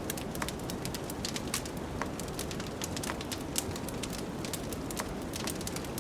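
Wood fire crackling, with many small, sharp pops at irregular intervals, over a steady low rush of wind.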